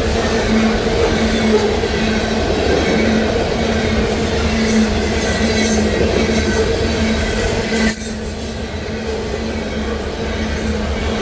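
Loaded freight train of potash cars rolling past: a steady rumble of wheels on rail with a steady hum, easing off slightly about eight seconds in.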